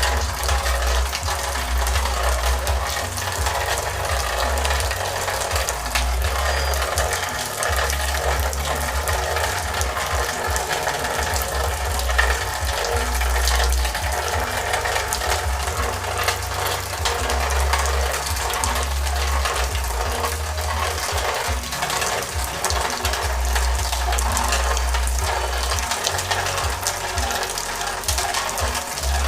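Heavy rain falling, a steady dense hiss full of rapid drop ticks, with a low rumble that comes and goes.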